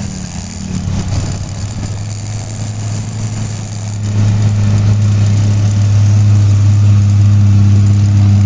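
Truck engine running steadily with a low, even drone; it gets louder about four seconds in and then holds.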